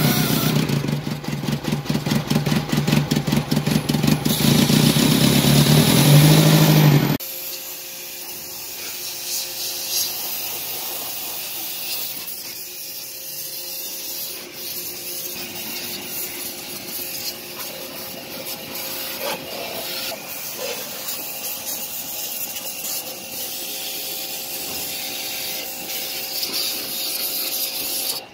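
Renault Kangoo's 1.6 16-valve (K4M) four-cylinder engine running after its broken timing-belt tensioner pulley was replaced. It is loud and evenly pulsing close up for about the first seven seconds, then drops abruptly to a quieter, steady run for the rest.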